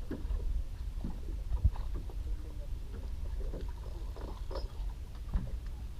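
Steady low rumble aboard a fishing boat at sea, with two dull knocks, one at the start and one just under two seconds in, and faint voices in the background.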